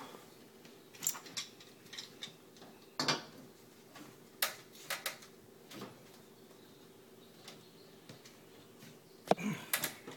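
Plumbing tools and pipe fittings being handled: scattered sharp metallic clinks and knocks, a second or so apart, with a louder cluster of knocks near the end.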